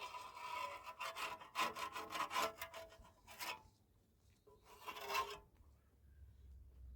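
Rapid repeated scraping strokes, then a pause and one more scrape about five seconds in.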